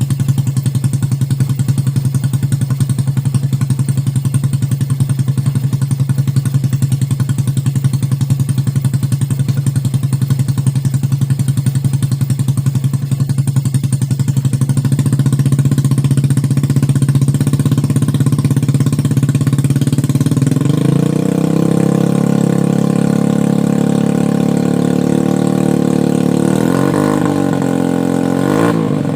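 Yamaha Jupiter motorcycle's single-cylinder four-stroke engine running through a CLD aftermarket exhaust, tuned to chug like a small dompeng diesel. It idles with a rapid, even beat, then holds a higher speed from about halfway, with two quick revs near the end.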